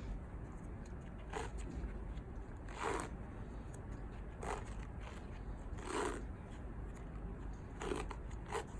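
Self-adhesive vet wrap being pulled off the roll and wound around a dog's leg bandage: short crackling rips, about six of them, roughly every second and a half.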